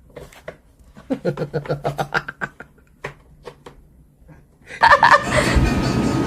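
A person laughing in a quick run of short chuckles, then a loud burst of noise that starts suddenly near the end and keeps going.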